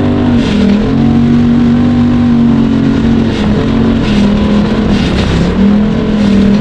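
Vehicle engine running at high, steady revs. Its pitch dips briefly and comes back up about four times, with short hissing bursts over it.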